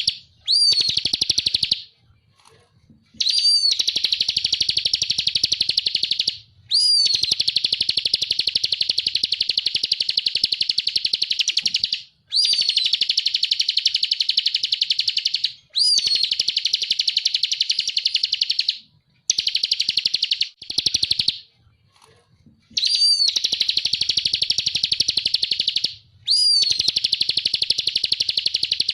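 Ciblek (prinia) singing the rapid machine-gun trill called 'ngebren', in long, high phrases of about three to five seconds. Each phrase opens with a sharp clear note, and a short pause separates one phrase from the next.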